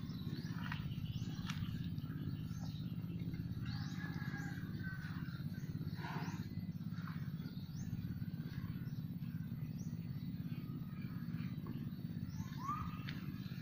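Small birds chirping with many short, scattered calls and a few brief sliding whistles, over a steady low hum.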